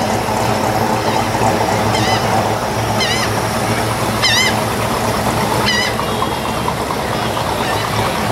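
Engines of classic cars idling and rumbling at a crawl as they roll past in a slow parade. A bird squawks four short times over the engine noise in the middle.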